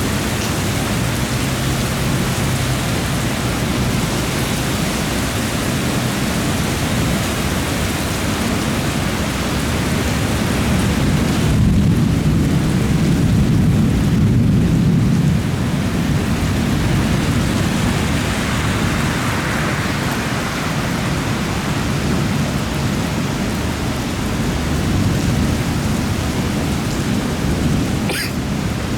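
Steady rain falling in a thunderstorm, with a long low rumble of thunder swelling up in the middle and fading away.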